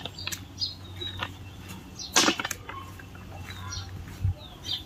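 Small birds chirping in short, scattered calls, some sliding in pitch, over a low steady hum. About two seconds in there is a brief loud burst of noise.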